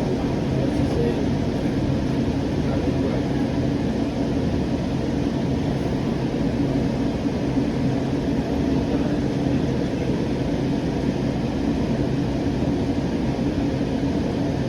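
Steady rumble of a Siemens S700 light rail car running between stops, heard from inside the car: wheels on the rails and drive noise with no change in level.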